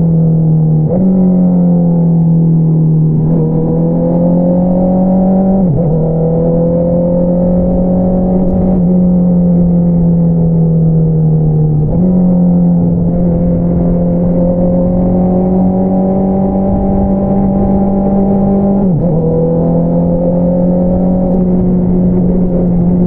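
2022 Honda CBR650R inline-four engine running through an Akrapovič single-outlet exhaust at steady cruising revs. A few times the engine note steps up or dips briefly, then holds steady again.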